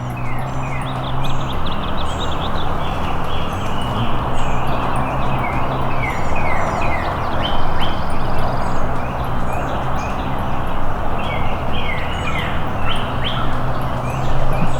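Birds chirping busily, many short downward-sliding calls in quick succession, over a steady hiss and a low droning hum.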